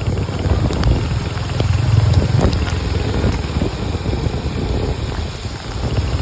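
Wind buffeting the microphone over the running noise of a vehicle on the road: a rough, loud rumble that swells about two seconds in.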